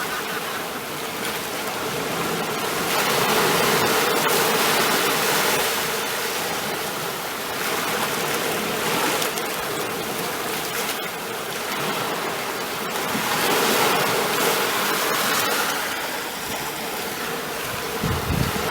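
Ocean waves washing on a shore, a steady rush of surf that swells and eases every few seconds.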